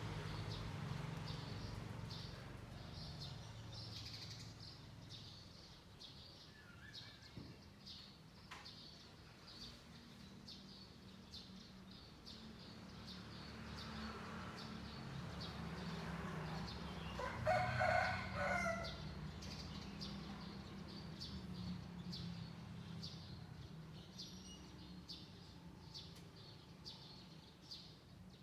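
A rooster crows once, the loudest sound, about two-thirds of the way through. Small birds chirp throughout over a low background rumble.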